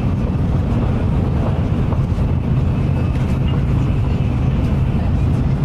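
Steady low rumble and hiss of a Shinkansen bullet train running at speed, heard from inside the passenger car.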